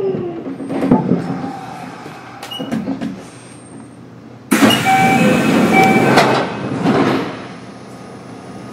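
Interior of a Kintetsu 1031 series electric train standing at a station with its doors open: scattered clunks and clicks, then a loud hiss that starts suddenly about halfway through and lasts about two seconds before the car settles back to a low steady hum.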